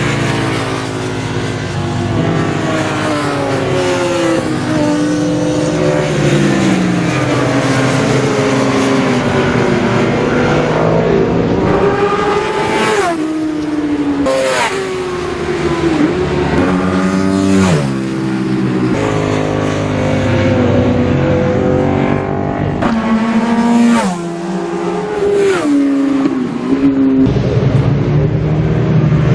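Several classic superbike racing motorcycles at speed on the track, their engines revving up and dropping back through gear changes. Two bikes pass close and fast midway through, and two more near the end.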